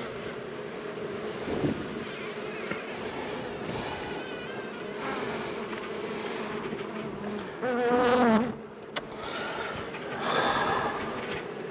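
Steady buzzing of a disturbed honey bee colony. About eight seconds in, a bee buzzes louder and closer, its pitch wavering.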